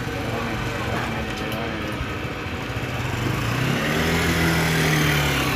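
Motorcycle engine running close by: its note rises about three seconds in, then holds steady as the loudest part.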